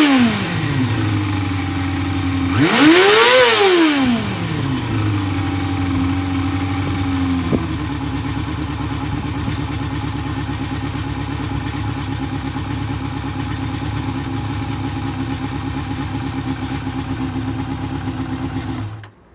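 Kawasaki Balius 250 cc inline-four motorcycle engine at idle, blipped once about three seconds in, its revs rising and falling back. It then idles steadily until it is switched off near the end.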